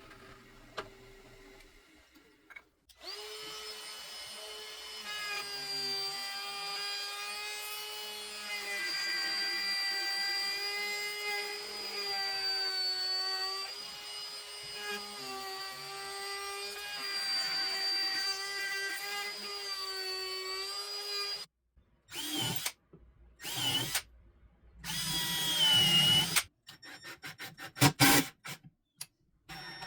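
Power drill running: a steady motor whine that wavers slightly in pitch for most of the stretch, then is triggered in short spurts that rise and fall in pitch, ending in a string of quick blips.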